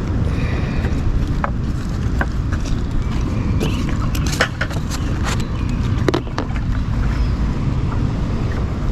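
Wind buffeting the microphone as a steady low rumble, with a few scattered light clicks and knocks in the middle.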